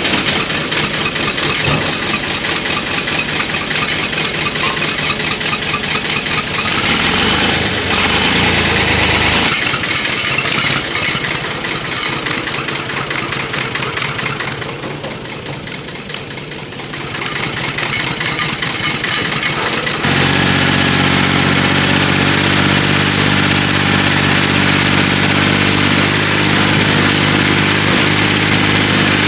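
Tractor engine firing after the fuel stop is pushed back in and running with a rapid, uneven clatter; about twenty seconds in the sound changes abruptly to a steady, even idle.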